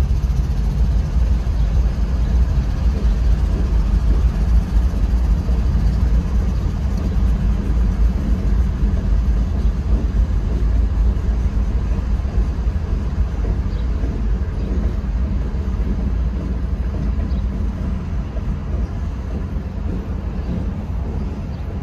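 Freight train's CSX diesel locomotives passing close by, a steady deep rumble. It eases slightly near the end as the locomotives clear and loaded flatcars roll past.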